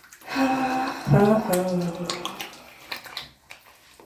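A woman's wordless vocalizing, a held note followed by a lower, falling one, over splashing and running water at a sink.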